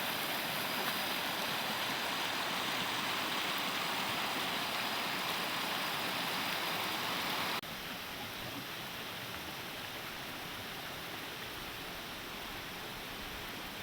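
Steady rush of flowing water, like a rainforest stream; it drops a little in level at a sudden cut about halfway through.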